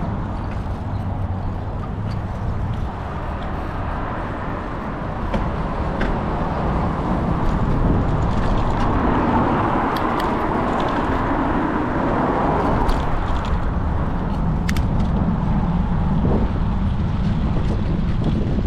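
Road traffic passing on a road. One vehicle swells and fades about halfway through, over a steady low rumble.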